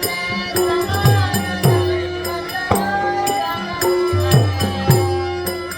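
Dashavatar folk-theatre music: a hand drum struck in a steady rhythm, its deep strokes sliding down in pitch, with crisp small-cymbal clicks and held melodic notes, and a voice singing along.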